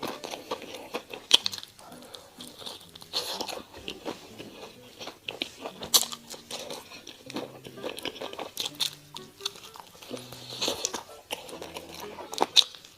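Close-miked eating: crunchy bites and chewing of fried chicken, with a few sharp loud crunches, over soft background music.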